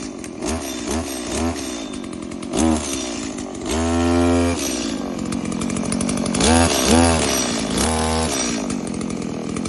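Two-stroke chainsaw running, its engine revved up and let fall back many times in quick blips, held high once for most of a second about four seconds in. It has just been started cold after sitting unused for two days.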